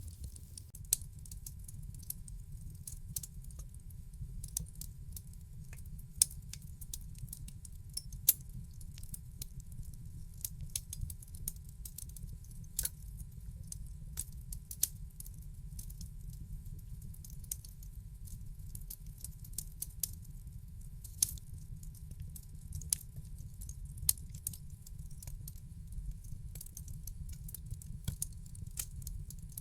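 Wood fire crackling in a fireplace: irregular sharp snaps and pops, a few much louder than the rest, over a steady low rumble of the burning logs.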